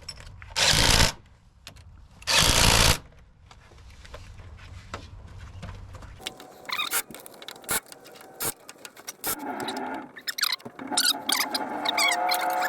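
Two short, loud, noisy bursts about a second and a half apart from hand-tool work under a truck's rear axle. Later come scattered clicks and knocks, with music starting near the end.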